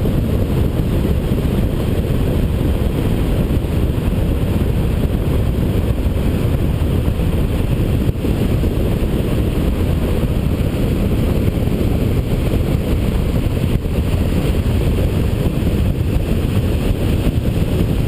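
Steady, loud wind rushing and buffeting over the microphone of a hang glider in flight, a deep, even rumble with no breaks.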